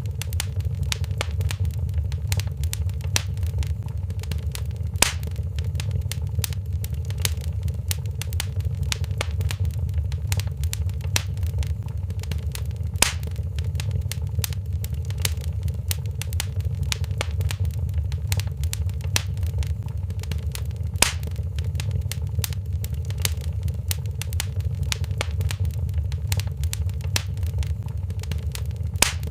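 Wood fire crackling in a fireplace: many small crackles over a steady low rumble, with a sharper pop about every eight seconds.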